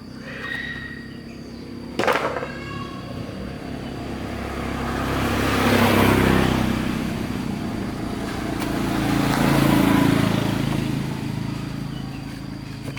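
A motor vehicle's engine running, swelling in loudness twice as if passing close by, with a sharp knock about two seconds in.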